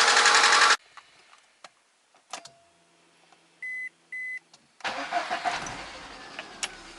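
VAZ-21124 16-valve engine running loudly, still not firing on its fourth cylinder, then cutting off abruptly under a second in. A few clicks follow, then two short electronic beeps. About five seconds in the engine starts again and the noise eases down towards idle.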